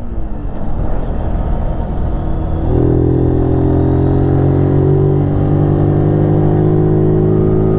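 125 cc scrambler motorcycle engine running under load on a mountain climb, the revs rising about a third of the way in and then holding steady.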